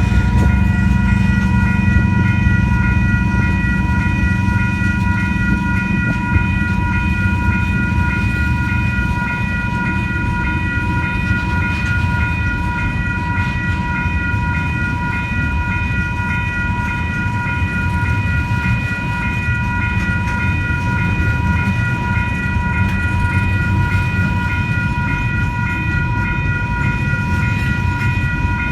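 Diesel freight train moving slowly past, its locomotive's low rumble loudest at the start and followed by the sound of the wagons rolling by. Level crossing alarm bells ring steadily throughout.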